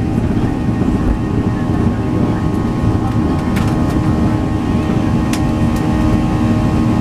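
Steady cabin noise inside a Boeing 737 airliner under takeoff power: a low, steady rush of engines and airflow with several steady hum tones above it. A couple of light clicks come about halfway through.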